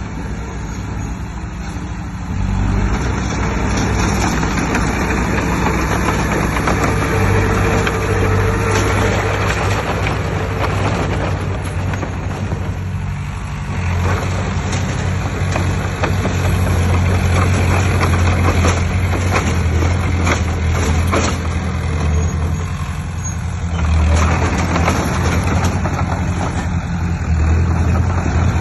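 Heavy diesel earthmoving machinery running hard, with a steady low engine hum and many knocks and clatters over it. It gets louder about two and a half seconds in.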